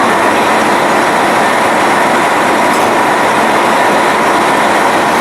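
JR Hokkaido KiHa 261 series diesel express train running on the rails: a steady, loud noise of wheels on track.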